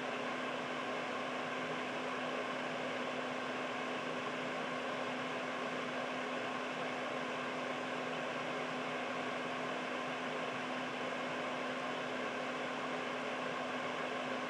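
Air purifier running steadily: an even rush of air from its fan, with a steady low hum underneath.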